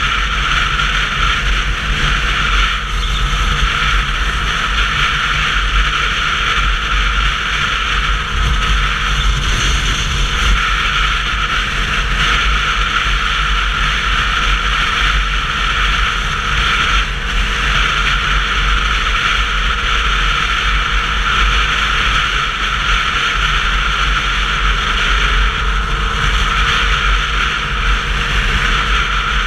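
Wind rushing over the microphone with road noise from a Sinnis Terrain 125cc motorcycle being ridden along: a steady loud rush over a low rumble.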